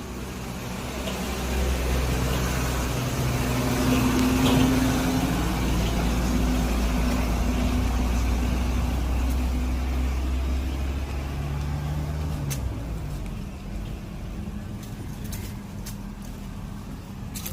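A motor vehicle's engine passing close on the street: a low rumble that swells over the first few seconds, is loudest about four to five seconds in, and dies away after about twelve seconds. A few sharp clicks follow near the end.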